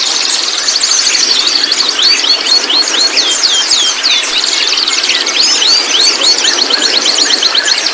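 Young white-rumped shama chattering, a fast run of short high chirps that sweep down or up, with stretches of rapid trilling, over a steady hiss.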